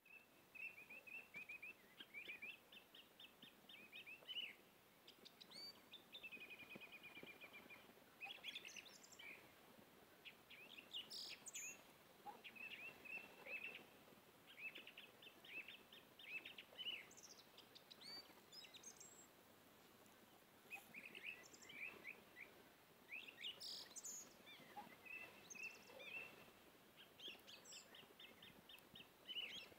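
Faint birds chirping: short runs of rapid, high chirps recur every second or two, with now and then a higher note.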